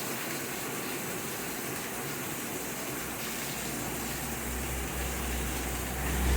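Steady rain falling as an even hiss, with a low rumble that builds from about halfway through and is loudest at the very end.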